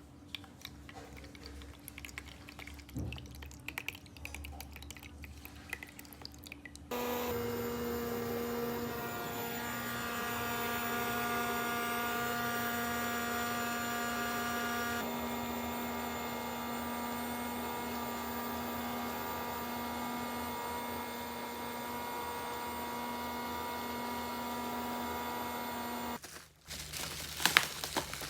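Quiet handling clicks, then a steady electric hum with several steady tones that starts suddenly about a quarter of the way in and stops abruptly near the end. It sounds like a small motor running, followed by a few louder clicks and rustles.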